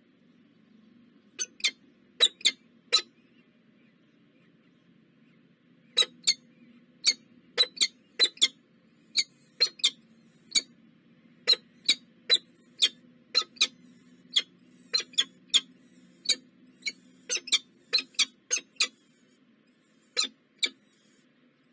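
A bird giving short, sharp chip calls again and again, singly and in quick pairs or runs, with a pause of a few seconds near the start.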